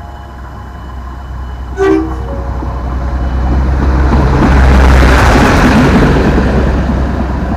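Diesel train approaching and passing close by, with a short horn toot about two seconds in. The sound of its engine and wheels on the rails grows louder, peaking as the train goes past about five seconds in.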